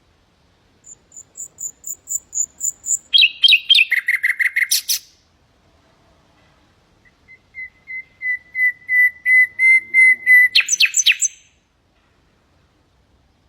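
Nightingale singing two phrases. The first is a run of high thin repeated notes that breaks into a quick, dense lower trill. The second is a series of repeated piping notes that swell steadily louder and end in a brief rattling flourish.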